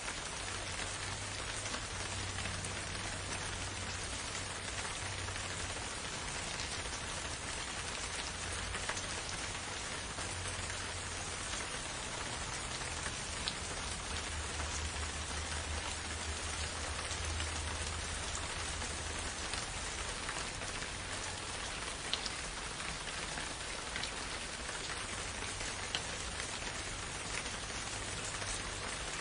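Steady rain falling, with a few louder single drops ticking out now and then.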